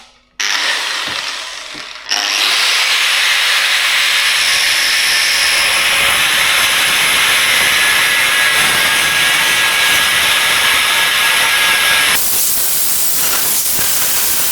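Corded power tool running steadily, a loud even hiss, cutting through a seized sleeve to split it. It starts about half a second in, gets louder about two seconds in, and eases off near the end.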